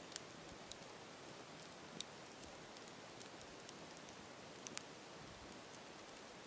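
Campfire burning: a low steady hiss with a few sharp, irregular crackles and pops, the loudest a little before five seconds in.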